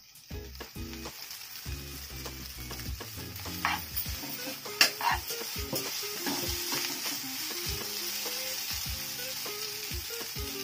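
Boiled noodles frying in a wok with scrambled egg and vegetables, sizzling steadily while a spatula stirs and tosses them, scraping against the pan. The sizzle builds after a couple of seconds, with the sharpest scrape near the middle.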